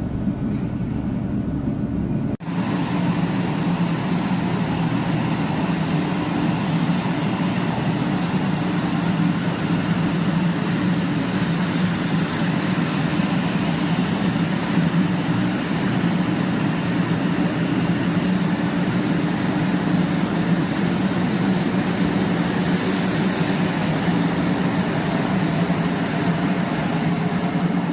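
Steady running noise of a 500 series Shinkansen at speed, heard on board: an even rush with a low hum. About two seconds in, the sound changes abruptly and loses its deepest rumble.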